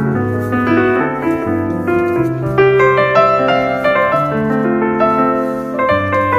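Background piano music: a melody of held notes over slow-changing bass notes.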